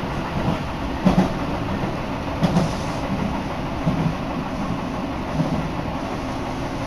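Tobu Urban Park Line electric commuter train running, heard from inside the car: a steady rumble with a low thump from the wheels crossing rail joints about every second and a half.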